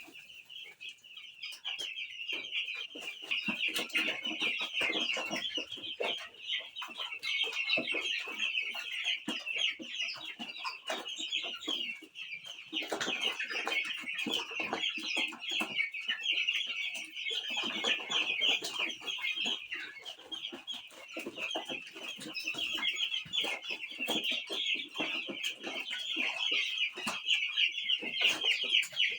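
A flock of 11-day-old chicks peeping continuously in a dense chorus of high calls, with scattered light taps and knocks among them.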